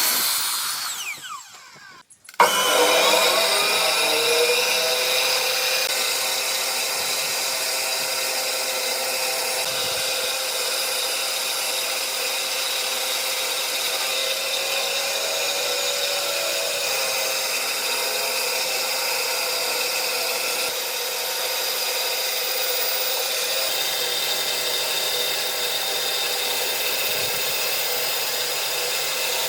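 Electric power tool winding down and stopping about two seconds in, then starting again, spinning up and running at a steady pitch.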